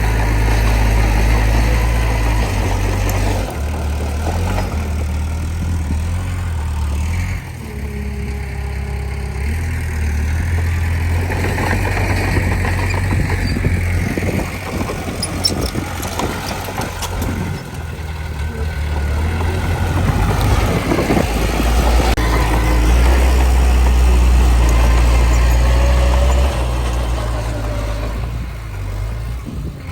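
Heavy diesel earthmoving machinery working: a low engine rumble that rises and falls with the load, with a run of metallic clanks and knocks around the middle.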